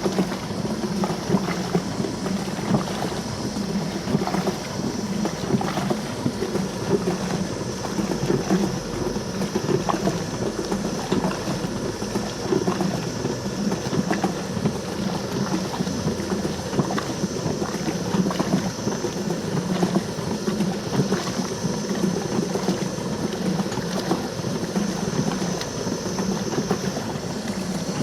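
Antique wooden washing machine running, its agitator churning water and clothes at high speed, driven by a high-revving motor fitted during restoration. A steady motor hum under continuous rhythmic sloshing.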